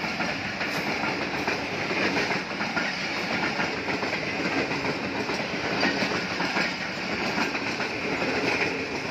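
Passenger train coaches rolling along the track, their steel wheels clattering steadily over the rails.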